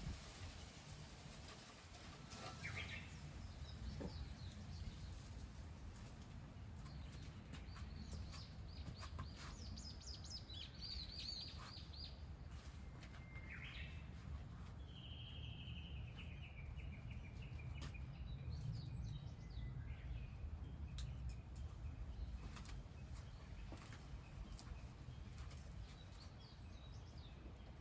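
Faint bird calls and chirps, one longer call falling in pitch a little past halfway, over a steady low rumble.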